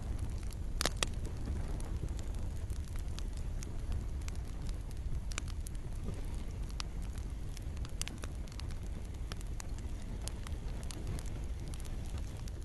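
Campfire crackling, with irregular sharp pops (a loud double pop about a second in) over a steady low rumble of burning, and gentle rain in the background.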